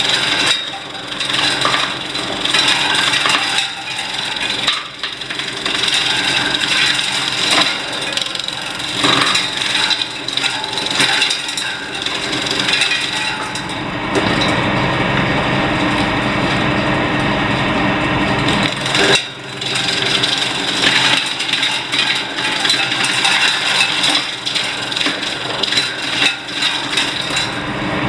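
Wood-shaving machine with an 11 kW motor running and cutting wood waste into shavings: a steady machine hum under rough, irregular cutting noise, with a brief let-up about two-thirds of the way through.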